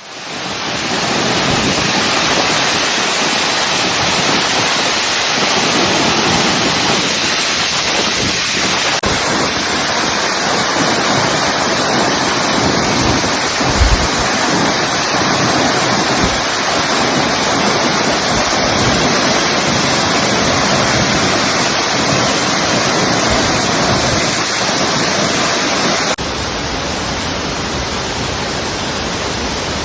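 Waterfall falling into its pool: a loud, steady rush of water, slightly quieter after a cut near the end, with a brief low bump about fourteen seconds in.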